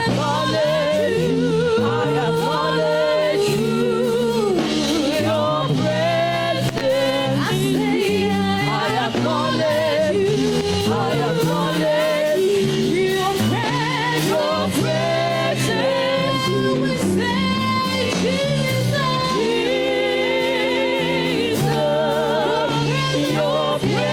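Gospel worship music: voices singing long, wordless or unclear vocal lines with vibrato over sustained chords from keyboard and band.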